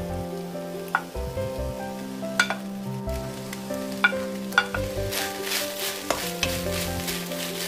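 Seaweed stems (miyeok julgi) stir-frying in oil in a frying pan over medium heat: a steady sizzle with a wooden spatula stirring and several sharp knocks against the pan. The sizzling grows louder about five seconds in, as carrot and onion strips go into the pan.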